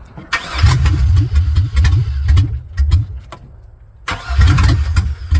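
Engine being cranked over by its starter in two attempts, the first about three seconds and the second about a second and a half, each stopping without the engine running.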